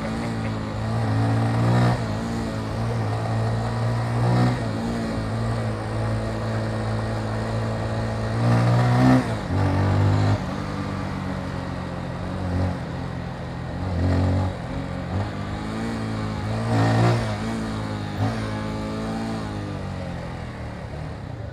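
Motorcycle engine running on the move in traffic. Its pitch holds and then steps between gears, with a few brief surges of revving.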